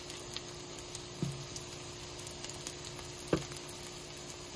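Egg-battered potato fritters frying in hot oil, a steady sizzle with scattered crackles. There are two light knocks, about a second in and again after three seconds.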